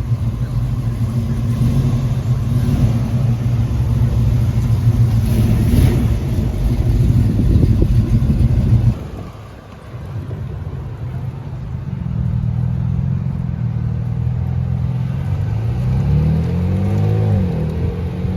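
Car engines running: a loud, low engine rumble that cuts off suddenly about nine seconds in, then another car engine that builds and is revved up and down several times near the end.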